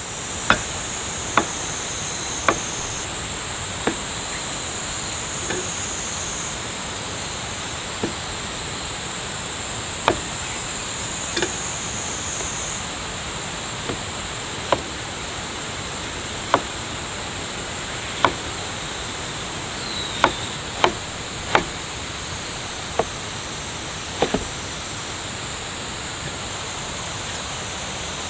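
Steady high insect chorus whose pitch steps up and down a few times, over a constant hiss of outdoor noise. Sharp single taps come irregularly, about one every one to two seconds.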